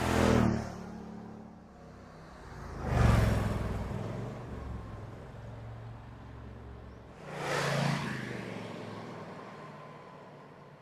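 Car engines going by at speed three times, each a loud rising and falling rush of engine note and tyre noise, about three and four seconds apart.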